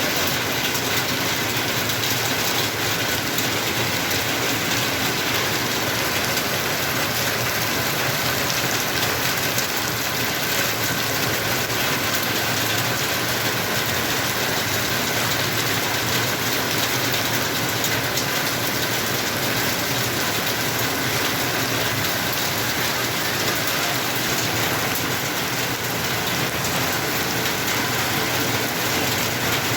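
Steady rain falling: a dense, even hiss that holds without a break.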